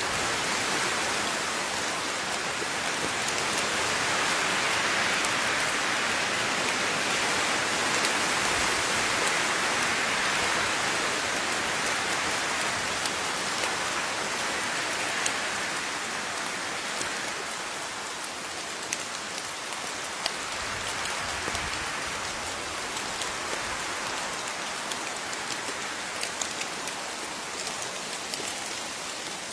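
Steady rain falling, an even hiss with scattered sharp drips of individual water drops, heavier in the first half and easing slightly later, when single drops stand out more.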